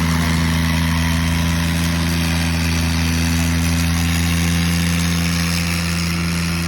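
Tractor's diesel engine running at a steady, unchanging speed, a constant low drone with no revving.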